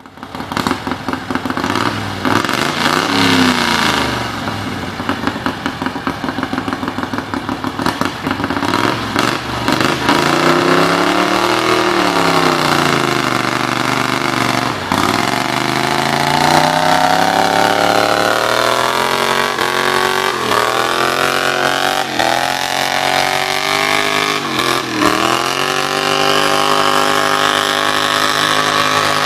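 A tractor engine running hard, its pitch rising and falling again and again, with several sharp drops and recoveries in the second half.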